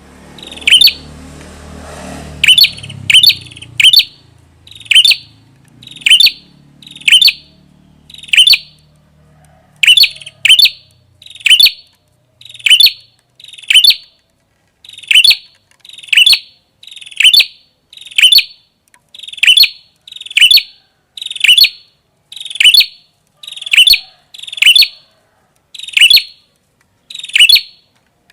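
Prenjak kepala merah, a small songbird, calling over and over: short, sharp, high chirps about once a second, now and then two in quick succession. A faint low rumble sits under the first few calls.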